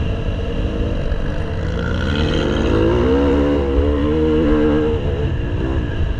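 Motocross bike engine accelerating: its pitch climbs about two seconds in, holds high for a couple of seconds, then falls away near the end, over a heavy low rumble.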